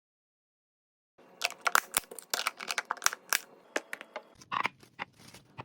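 Sharp, irregular clicks and taps of small hard objects being handled, with a little rustling. They start about a second in, after dead silence.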